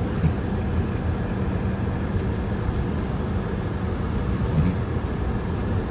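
Steady, fluttering low rumble of strong snowstorm wind buffeting the microphone.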